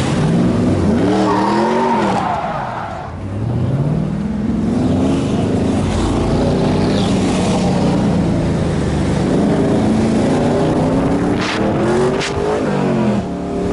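V8 muscle car engine revving hard during donuts, its pitch climbing and dropping again and again, with two short sharp cracks near the end.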